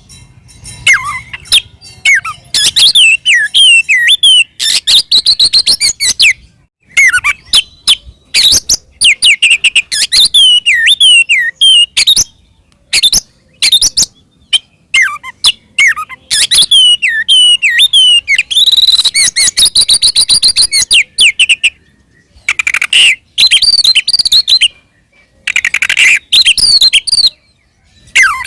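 Oriental magpie-robin (kacer) singing loudly in fighting mode: rapid bursts of varied whistles, sweeps and chattering notes, with brief pauses between phrases.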